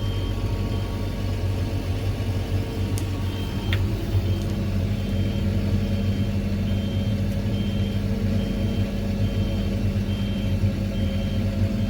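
Engine of a fork-equipped loader running steadily while its reversing alarm beeps about once a second as the machine backs up with a load of hay feeders.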